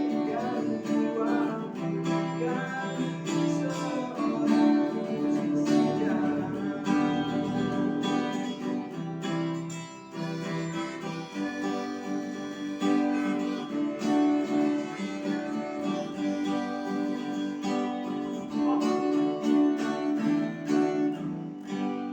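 Acoustic guitar music with strummed chords, fading out at the very end.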